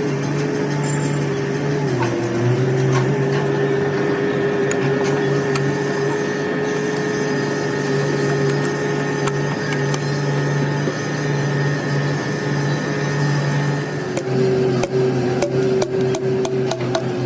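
Workshop machine motor running with a steady hum. Its pitch dips briefly about two seconds in. From about fourteen seconds in, quick sharp metallic taps and clicks come over it.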